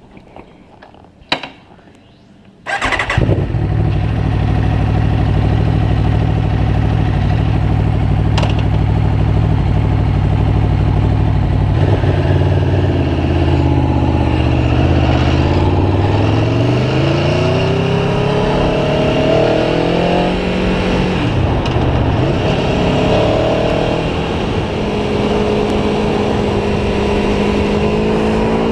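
Aprilia Tuono V4 1100 Factory's V4 engine starting up about three seconds in, running steadily, then rising in pitch in several long climbs with drops between, as when the bike pulls away and shifts up through the gears.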